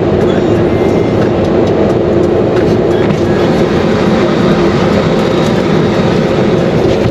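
Automatic tunnel car wash machinery running, a loud, steady rumbling noise.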